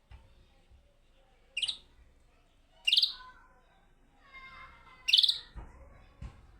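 European goldfinch calling: three short, loud high-pitched calls spaced one to two seconds apart, with quieter lower twittering between the second and third. Two dull knocks near the end.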